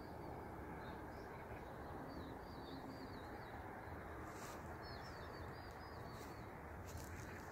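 Small birds chirping in short, quick runs of wavering calls over a steady low background noise.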